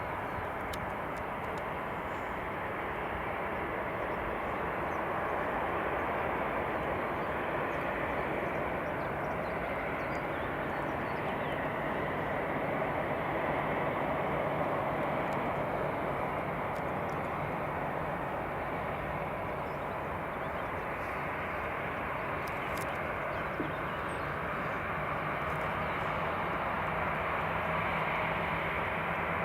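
Jet airliner engines running with a steady rushing noise that swells gently and eases, with a faint low hum coming in over the later part.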